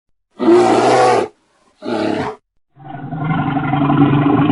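Bear calling loudly: two short calls, then a longer call of about three seconds starting past the halfway point.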